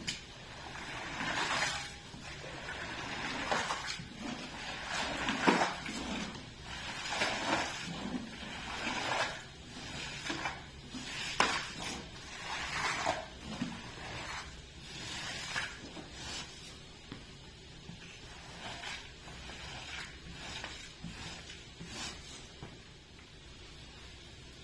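A cleaning tool worked over a wet rug in repeated swishing strokes, roughly one a second, which die away over the last few seconds.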